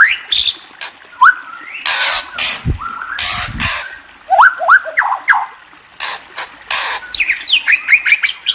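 Bird calls: runs of short, quick rising chirps mixed with harsh squawks, and a brief low rumble about three seconds in.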